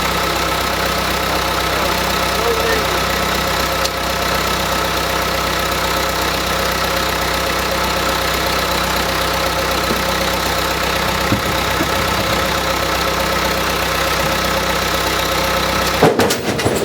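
An engine running steadily at an even speed. Near the end there is a brief break with a few sharp clicks.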